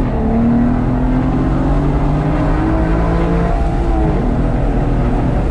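Aston Martin DBS V12 engine heard from inside the cabin under hard acceleration. The engine note climbs just after a gear change near the start, keeps rising, then the revs fall away about three and a half seconds in.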